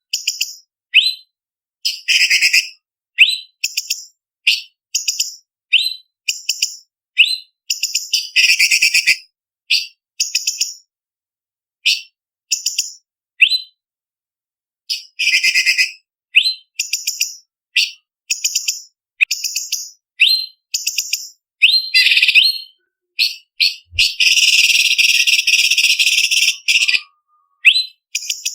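Orange-bellied leafbird (cucak cungkok) singing: sharp, high whistled notes and quick upward-sweeping chips in short separate phrases. Near the end comes a harsh, continuous trill lasting about three seconds.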